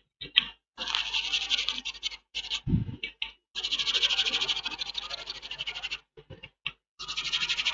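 A brush scrubbing leftover black underfill glue off an iPhone X logic board: three bouts of rapid back-and-forth scratchy strokes with short pauses between them, and a brief low knock about two and a half seconds in.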